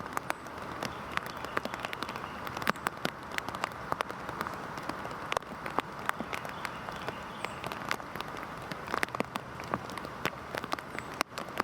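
Heavy rain: a steady hiss of rainfall with many sharp individual drops striking close by, irregular and continuous, with a momentary drop in level near the end.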